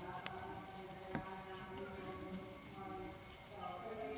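Crickets chirping in short repeated trills of three or four pulses, over soft sustained background music. Two brief clicks, about a quarter second in and about a second in.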